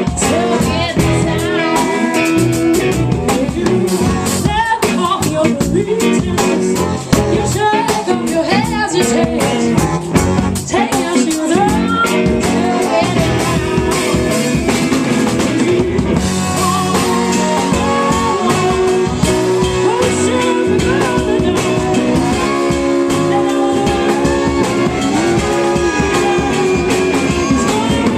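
A live band playing loudly, with guitar and a drum kit and a voice singing over them.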